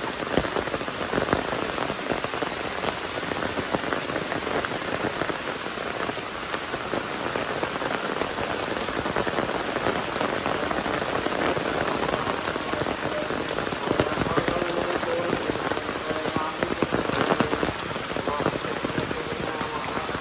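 Steady rain falling, with many individual drops ticking on surfaces over a continuous hiss of rainfall.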